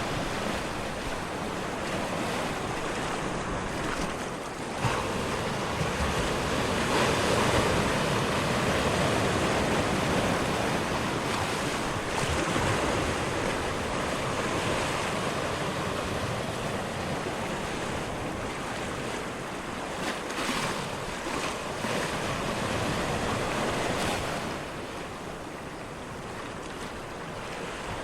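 Ocean surf with wind: a continuous rushing of waves that swells and ebbs, easing off somewhat near the end.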